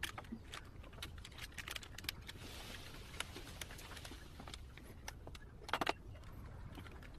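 Small metallic clicks and scraping of wire being handled and twisted with pliers, with a louder cluster of clicks near the end, over a steady low background rumble.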